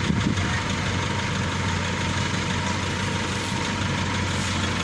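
Combine harvester engine running steadily with a low, even hum.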